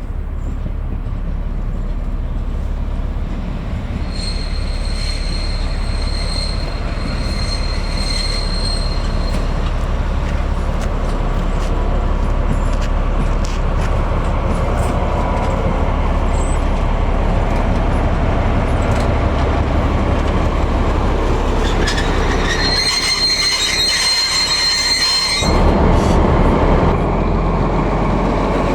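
Class 218 diesel-hydraulic locomotive running on the track, its engine noise growing slowly louder. High-pitched wheel squeal sounds for about five seconds early on and again, louder, for about two seconds near the end.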